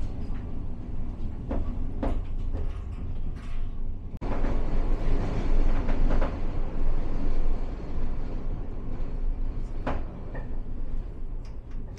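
Aigle–Leysin rack-railway train running, a steady low rumble with scattered clicks and clanks. The sound breaks off for an instant about four seconds in and comes back louder.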